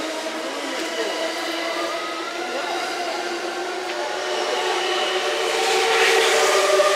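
E001 series Train Suite Shiki-shima train passing slowly at close range: running noise with several steady tones through it. Near the end it grows louder as the held tones of its music horn come in.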